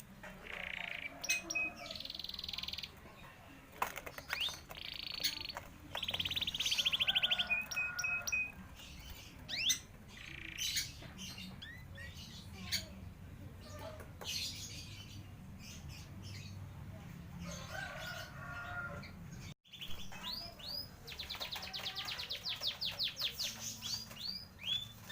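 Domestic canaries singing and calling: short high chirps and upward-sweeping whistled notes, with fast rattling trills twice, about a quarter of the way in and again near the end.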